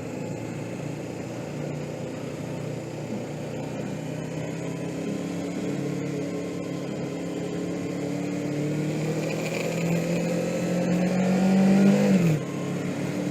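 Suzuki GS500E motorcycle's air-cooled parallel-twin engine running under way. It rises in pitch and loudness as the bike accelerates over a few seconds, then drops off sharply near the end as the throttle is closed.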